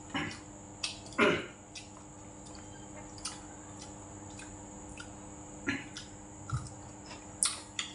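A person chewing crunchy pickled vegetables close to the microphone, with short crackling bites, the loudest about a second in, and a few light clicks of chopsticks on dishes. A faint steady hum runs underneath.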